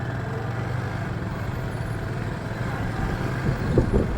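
Motorcycle engine running steadily with a low, even hum, amid city traffic noise, with a few short louder knocks shortly before the end.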